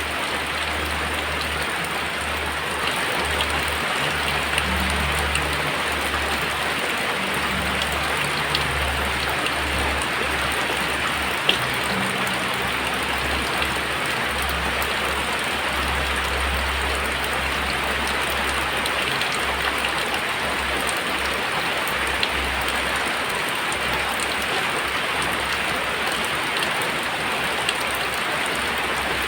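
Very heavy rain pouring down steadily, with scattered sharper drop ticks. A low rumble sits underneath for the first two-thirds and then fades.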